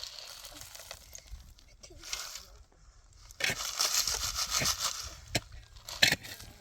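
Crunching and scraping noises in bursts, louder in the middle, with a couple of sharp clicks near the end.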